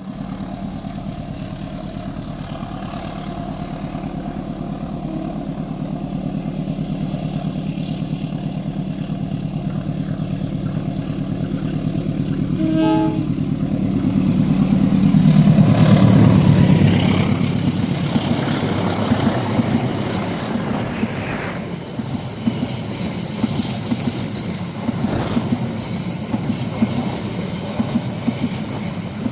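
Diesel locomotive approaching, its engine drone growing louder, with a short horn blast about thirteen seconds in. It passes loudest around sixteen seconds as the engine note drops. The carriages then roll by with wheels clattering over the rail joints and some wheel squeal on the curve.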